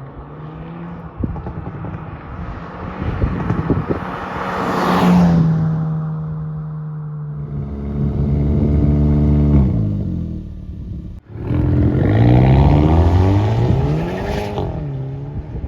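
Hyundai i30 N's in-line four-cylinder engine revving and accelerating, with exhaust crackles and pops in the first few seconds. The revs climb and fall in steps through gear changes. A short break comes about eleven seconds in, then another climb in revs that ends in a quick drop.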